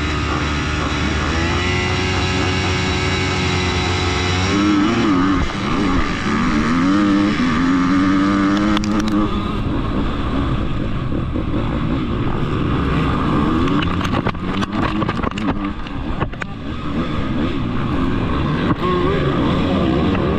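Two-stroke dirt bike engines at a race start: revs held steady at first, then rising and falling as the bikes launch and shift up. Past the middle, a run of sharp ticks and knocks from dirt roost thrown by other bikes pelting the helmet camera.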